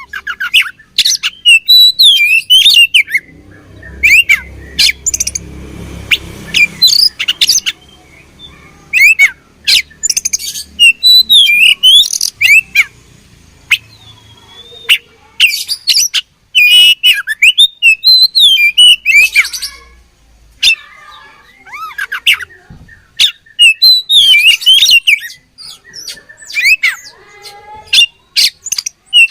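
Oriental magpie-robin singing loud phrases of sharp, quickly gliding whistles mixed with harsh, clicky notes, the phrases separated by short pauses.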